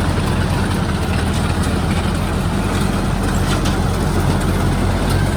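Kubota DC-73 combine harvester's diesel engine running steadily under load.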